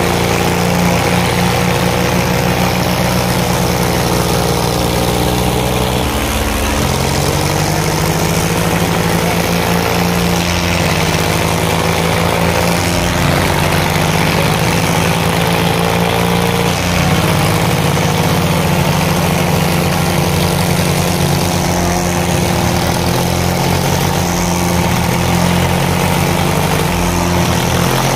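Diesel tractor engines running steadily, with their pitch sagging and recovering a little a few times.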